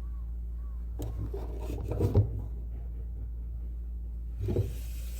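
Hand carving tool scraping and rubbing across wood in short strokes, once about a second in (loudest near two seconds) and again near the end, over a steady low hum.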